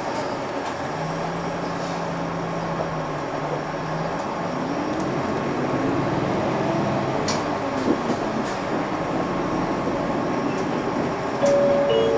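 Interior running sound of a 2006 UD (Nissan Diesel) Space Runner RA city bus: steady engine and drivetrain hum, with a rising whine as it gathers speed about four seconds in. A few sharp clicks come about halfway through, and a short steady tone sounds near the end.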